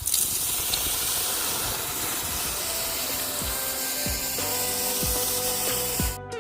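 A loud steady hiss that cuts off sharply near the end, with guitar music coming in about halfway through.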